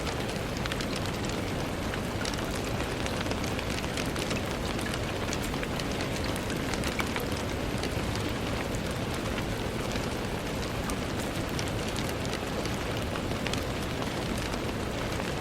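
Steady rain falling, with many individual drops ticking against a surface.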